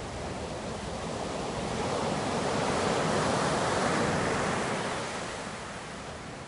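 Ocean waves breaking: a steady wash of surf that swells to a peak about halfway through as a wave breaks, then eases back.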